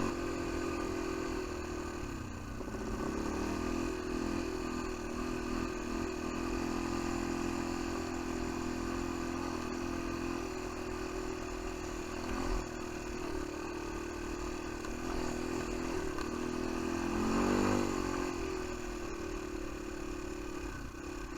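Jaeger 200 quad bike's engine running steadily, revving up briefly a couple of seconds in and again about three-quarters of the way through.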